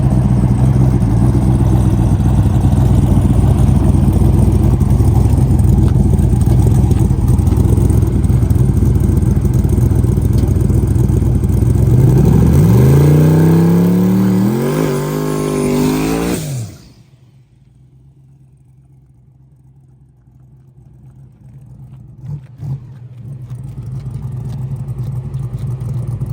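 A drag racing car's engine running loud at a steady pitch, then accelerating hard, its pitch rising in three sweeps with a gear change between each. The sound cuts off suddenly about 17 seconds in, and a quieter engine sound builds up again near the end.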